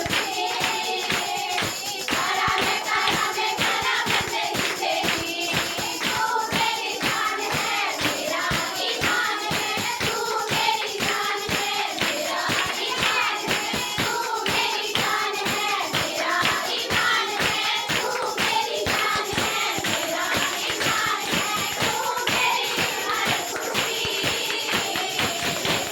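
Worship song sung by a group of voices over a fast, steady percussion beat.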